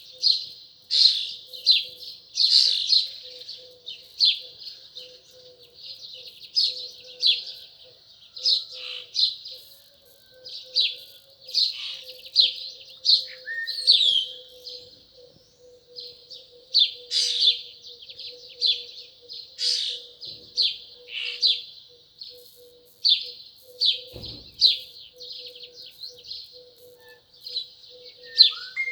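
Small birds chirping continuously, many short bright chirps following one another every half second or so.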